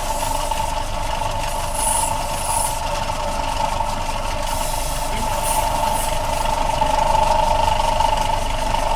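Electric polishing machine running with a steady whine while steel kalimba key strips are polished on it. A few short, high hisses come through about two seconds in and again around five and a half to six seconds in.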